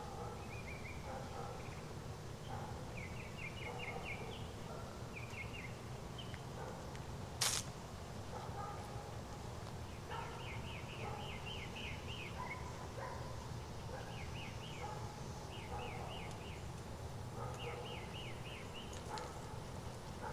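A bird singing short runs of quick chirps, repeated every few seconds, over a steady low background rumble. One brief sharp noise about seven and a half seconds in is the loudest moment.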